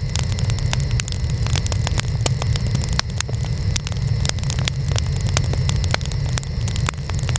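Wood fire burning and crackling: many sharp pops and snaps, several a second, over a steady low rumble of the flames.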